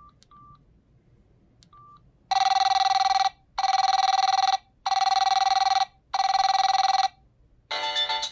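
Samsung SGH-X506 cell phone: three short keypad beeps, then a ringtone playing through the phone's speaker as a trilling telephone-ring tone in four one-second rings with short gaps. Near the end a melodic ringtone starts.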